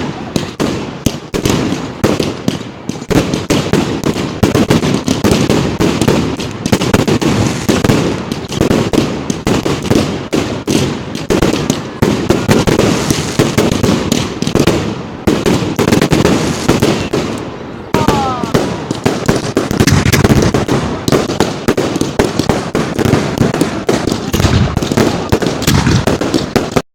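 Fireworks display: a dense, continuous run of bangs and crackles, with a brief rising whistle about eighteen seconds in.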